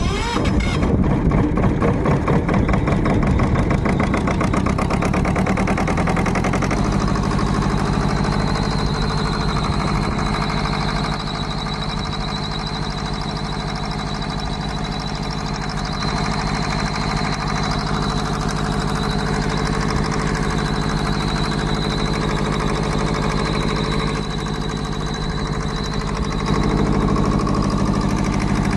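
Freshly rebuilt Kirloskar two-cylinder diesel engine of a 20 kVA generator set starting up and running. It fires unevenly for the first six seconds or so, then settles into a steady beat, getting a little louder near the end.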